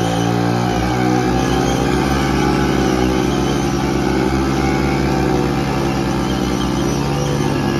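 Two Hero Splendor single-cylinder four-stroke motorcycle engines held at high revs under heavy load, pulling against each other on a tow rope while a rear tyre spins on concrete. The engine note stays steady, rising slightly and falling back in the middle.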